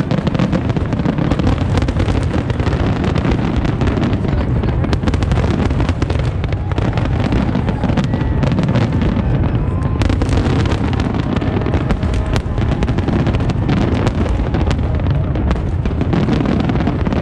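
Fireworks display going off in a dense, continuous barrage: overlapping low booms of bursting shells with many sharp cracks and crackles on top.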